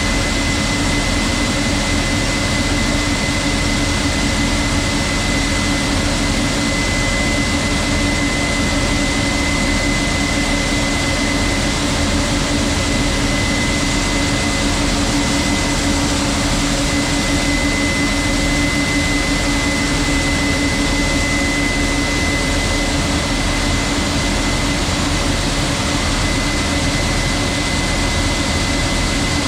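Combine harvester running steadily while harvesting corn, heard from inside the cab: an even machine drone with a constant high whine.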